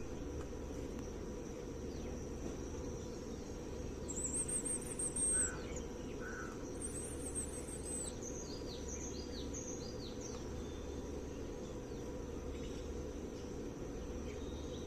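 Small birds chirping and twittering in short bursts, mostly in the middle, over a steady high insect buzz and a constant low background noise.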